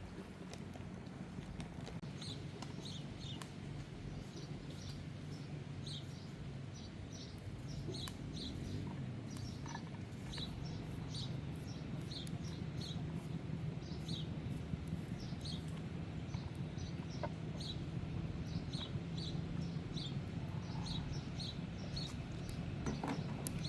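Bird chirping repeatedly in short high notes, several a second, over a steady low rumble.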